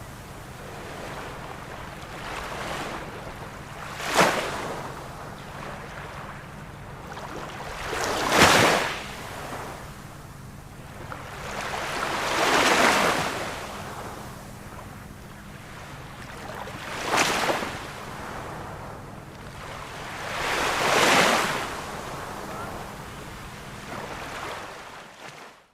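Ocean surf: waves breaking about every four seconds over a steady wash of water. The sound cuts off suddenly near the end.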